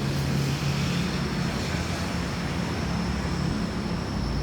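Steady low mechanical drone with a thin high whine above it.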